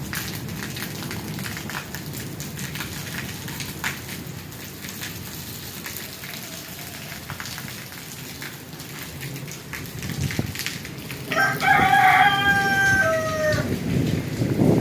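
Rain falling steadily, with a rooster crowing once for about two seconds near the end, its call tailing off in pitch. A low rumble of thunder begins just as the crow ends.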